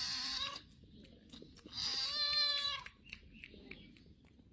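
Cat meowing twice, high-pitched: a short meow at the start and a longer one about two seconds in.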